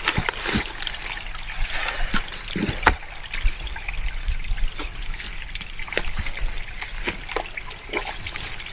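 Water trickling steadily in a small forest stream, with irregular short sharp clicks scattered throughout.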